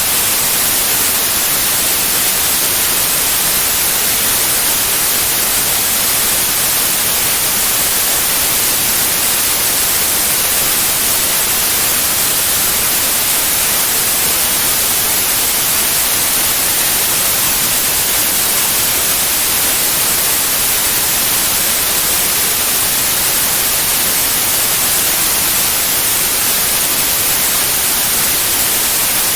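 Steady, unchanging white noise: an even hiss, brightest in the highs, played as a sleep sound for babies.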